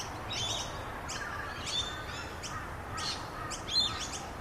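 Birds chirping: short, high, downward-sweeping chirps repeating several times a second, with fainter warbling calls lower down.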